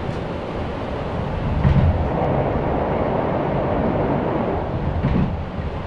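Electric passenger train running on the rails, a steady rumble of wheels and carriage heard from on board. It gets a little louder about two seconds in, with a couple of heavier bumps.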